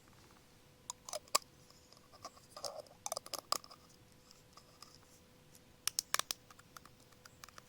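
Herbs being picked by hand: crisp snapping and cutting of stems with rustling leaves, in three short clusters.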